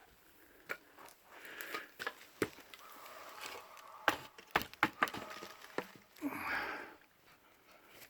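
A series of irregular sharp knocks and clicks, clustered about four to five seconds in, followed by a brief louder rasping sound a little after six seconds.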